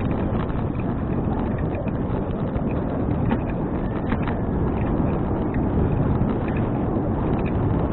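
Wind rushing over an action camera's microphone on a moving bicycle: a steady low rumble, with a few light clicks and rattles from the bike in the middle.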